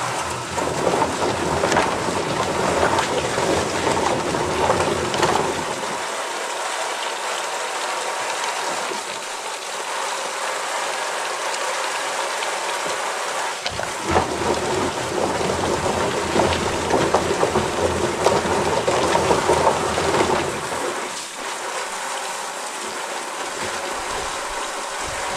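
Water spraying and splashing, a steady rain-like rushing, with two louder stretches carrying a low rumble: one in the first six seconds, one from about fourteen to twenty-one seconds in.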